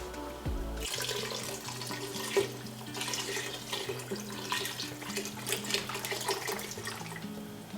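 Chicken stock pouring from a carton into a soup pot: a steady splash of liquid that starts about a second in. Background music plays under it.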